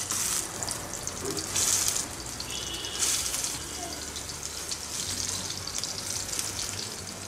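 Spice-coated ash gourd slices sizzling in hot mustard oil in a frying pan, the hiss surging each time a slice is laid in, three times in the first three seconds, then settling to a steady frying sizzle.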